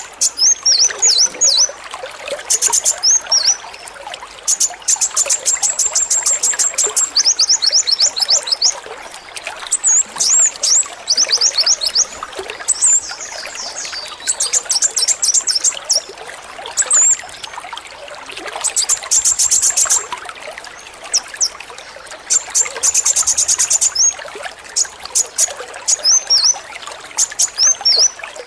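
Male kolibri wulung sunbird singing: bursts of very rapid, high rattling trills, the machine-gun-like song that keepers call 'AK-47', alternating with short down-slurred chirps. Running water trickles steadily underneath.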